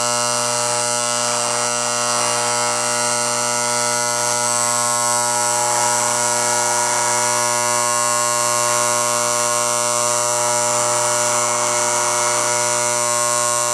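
The restored American Flyer 771 operating stockyard's electric vibrator mechanism buzzing steadily as it runs. The buzz keeps one pitch throughout.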